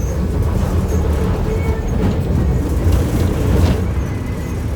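Inside a Marcopolo Torino city bus on a VW 17-230 OD chassis while it drives: a steady low engine-and-road rumble, with light rattles from the bus body.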